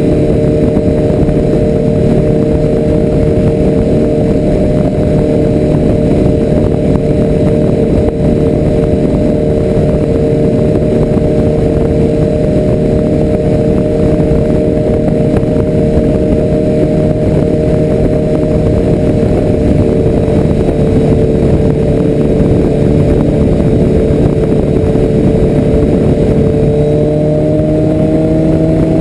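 Motorcycle engine running steadily at cruising speed, with a dense low rumble beneath the engine note; the pitch shifts a little near the end.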